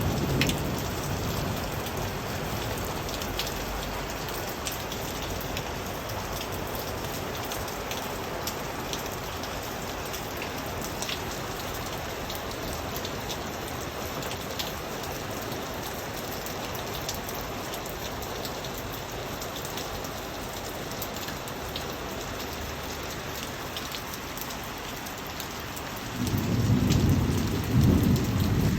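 Steady rain falling, with individual drops ticking sharply now and then. A low rumble of thunder dies away right at the start and another roll of thunder builds up loudly about three seconds before the end.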